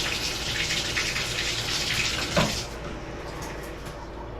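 Shower running after a replacement Delta part was fitted: a steady rush of spray with no whine, showing the new part has cured the noise. A short louder sound comes about halfway through, and the rush is a little softer after it.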